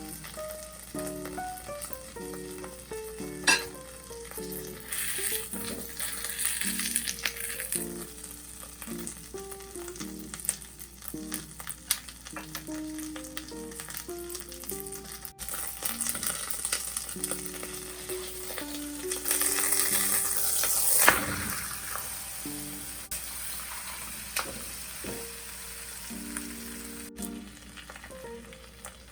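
A quesadilla frying in a hot pan, its sizzle swelling in waves and loudest about two-thirds of the way in, with a sharp knock of the pan or utensil near the start and another at the peak. Light background music plays with a simple melody throughout.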